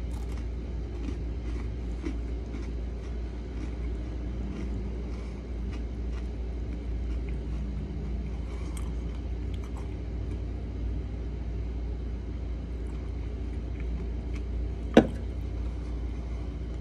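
A person chewing a bitten Oreo cookie with the mouth closed, faint crunching ticks over a steady low hum, with one sharp click about fifteen seconds in.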